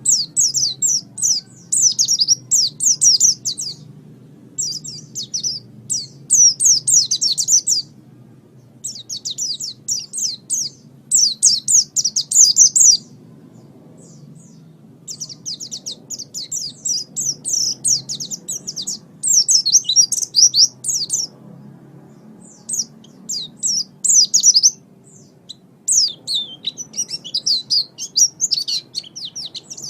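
White-eye (pleci) singing in rapid, high twittering phrases of one to three seconds each, broken by short pauses, over a faint low hum.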